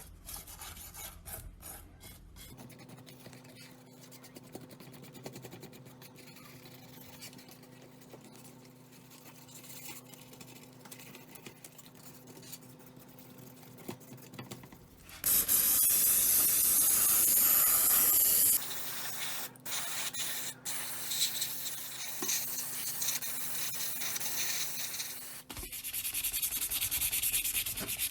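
Sanding and rubbing on a scale-model car part: faint scraping at first, then a loud stretch of abrasive strokes about halfway through and steady loud sanding again near the end.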